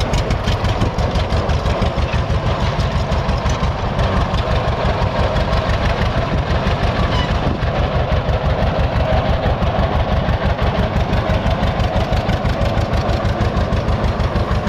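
1926 John Deere Model D's horizontal two-cylinder 7.6-litre engine running at a steady idle, its firing pulses coming as an even, unbroken beat.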